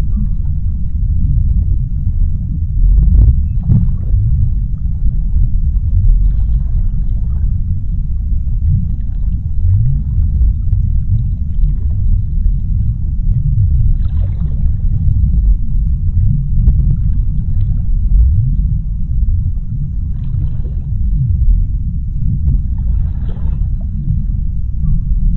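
Underwater sea ambience: a deep, steady rumble with faint swishes rising above it every few seconds.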